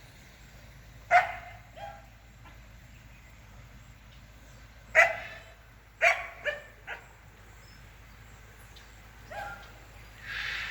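A dog barking: single sharp barks about a second in and again near two seconds, a loud bark at five seconds followed by a quick run of three, and one more near the end.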